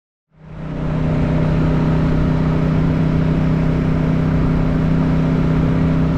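Motorcycle engine running at a steady speed while riding, with wind and road noise; it fades in from silence just after the start.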